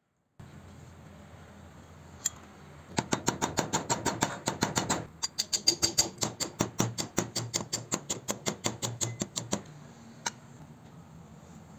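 Small hammer tapping on the steel hex-ended gear shaft of a hand drill's cast frame: a quick, even run of light metallic strikes, about five a second, broken once by a short pause, with a single tap before and after the run.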